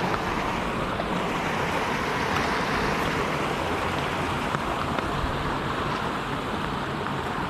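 Steady rush of creek water flowing and cascading over rock ledges, with a few faint clicks over it.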